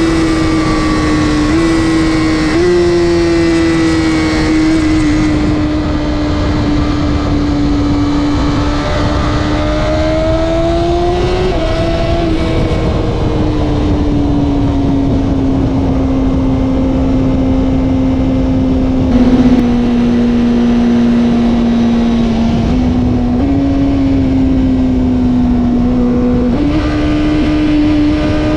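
Honda CBR1000RR-R SP's inline-four engine idling while it warms up after a cold start, at a steady pitch that steps slightly up and down and rises briefly about ten seconds in. A short thump is heard about twenty seconds in.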